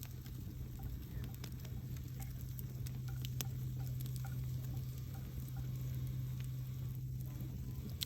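Wood campfire crackling, with scattered sharp pops and snaps over a steady low rumble and hum.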